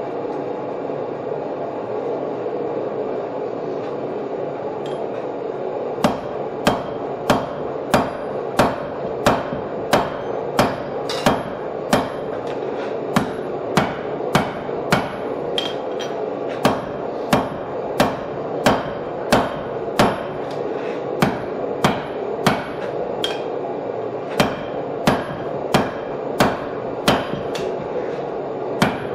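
Hand hammer striking red-hot steel laid over a bottom fuller, fullering a groove in it: a steady run of sharp blows, a little under two a second, starting about six seconds in, each with a short metallic ring, over a steady background hum.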